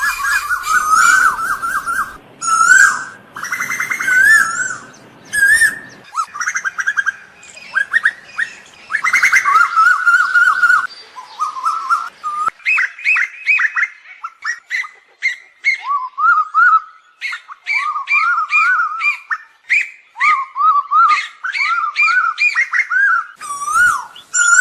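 Asian koel calling: a rapid, continuous run of short, wavering whistled notes with brief pauses.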